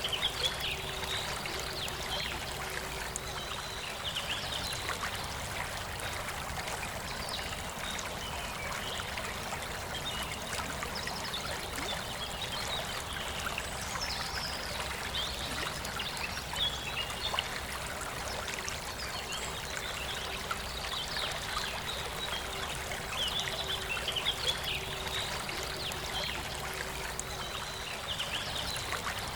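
A river flowing steadily, with birds singing short chirping phrases on and off over the rushing water.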